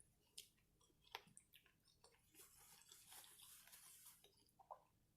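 Faint close-miked chewing of fried seafood, with scattered small wet clicks and smacks of the mouth, and a soft stretch of crunching or squishing about halfway through.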